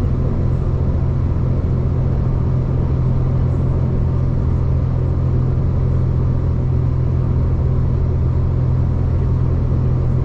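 V/Line passenger train running along the line, a steady low rumble with no change in pace.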